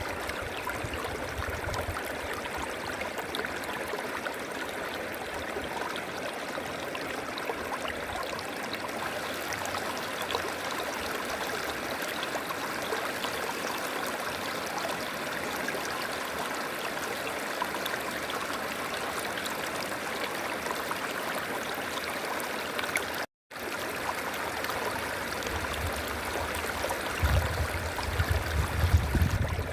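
River water flowing steadily over rocks, an even rushing and gurgling. The sound cuts out completely for a moment about three-quarters of the way through, and a low rumbling joins it near the end.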